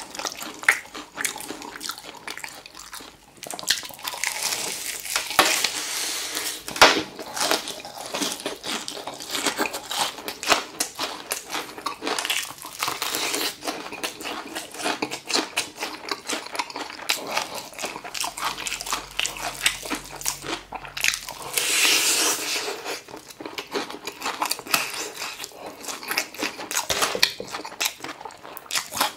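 Close-miked crunching and chewing of crispy battered fried chicken: bites through the crust and steady crackly chewing, with one sharp loud crunch about seven seconds in.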